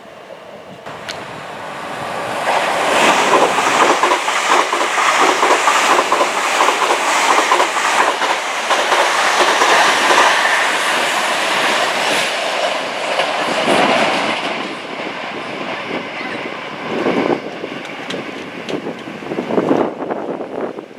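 A passenger train passing close by, its wheels clattering over the rails. It builds up about two seconds in, stays loud for about ten seconds, then eases off, with a few short louder knocks near the end.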